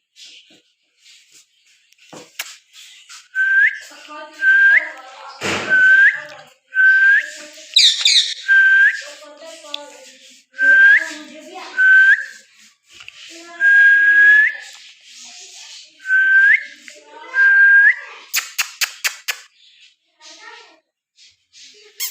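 A green parrot whistling again and again, about ten short whistles, each held at one pitch and ending in a quick upward flick, with a brief higher chirp in the middle. A quick run of sharp clicks comes near the end.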